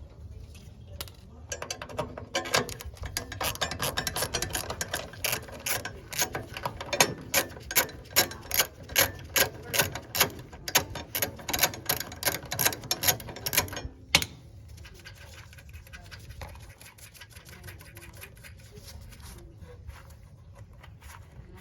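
Hand-tool work on a gas water heater's burner and pilot fittings: rapid mechanical clicking with stronger clicks about twice a second, which stops sharply a little past halfway. After that there is only faint handling noise over a low hum.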